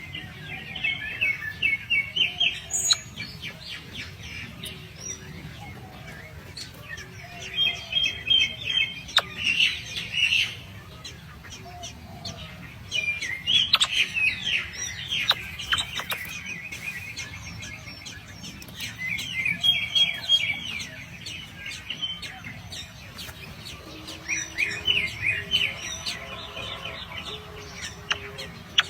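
Small birds chirping: bursts of rapid, high chirps come about six times, each lasting one to three seconds with quieter gaps between.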